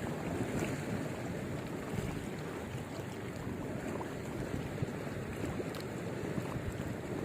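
Steady rushing noise of wind and water, with a few faint clicks.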